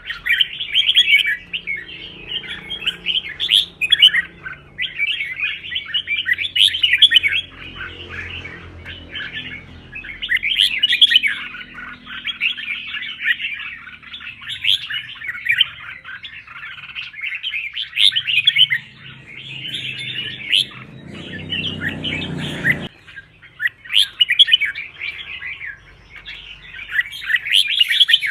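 Red-whiskered bulbul singing a long run of rapid, chattering song phrases with only brief pauses: the fired-up, combative song that bulbul keepers train for. A low background rumble swells and then cuts off suddenly near the end.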